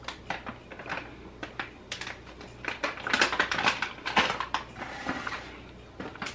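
A person chewing a bite of crunchy chocolate peppermint candy cane cookie close to the microphone, with irregular crunching clicks that come thickest around the middle.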